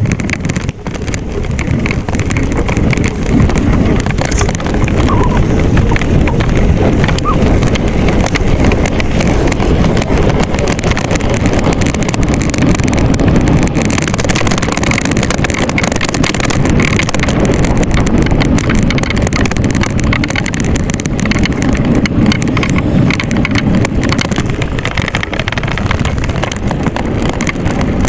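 Wind rushing and buffeting over the microphone while riding a bike, a loud steady rumble with no clear engine tone.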